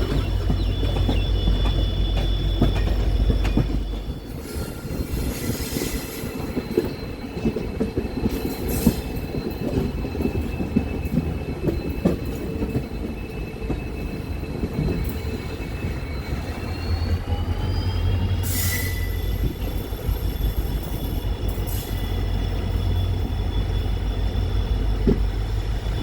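Diesel-hauled passenger train running on the rails: a continuous low rumble with scattered knocks, and steady high whining tones that rise in pitch about two-thirds of the way through.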